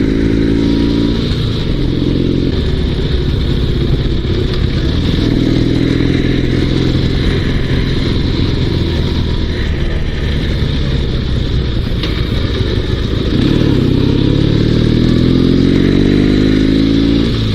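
Dnepr 16 sidecar motorcycle's 650cc flat-twin engine running under way as it pulls off, its pitch rising as it accelerates through the gears, climbing again in the last few seconds.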